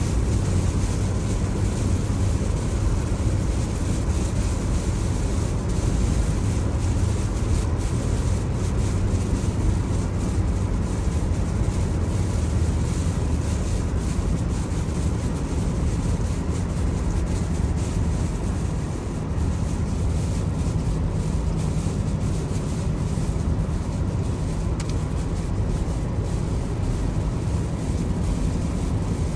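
A car driving on wet road in the rain: a steady low rumble of tyres and engine, with a lighter hiss of water and rain above it.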